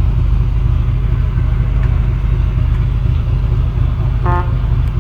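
Boat engine running with a steady low rumble. About four seconds in, a brief pitched tone sounds for a fraction of a second.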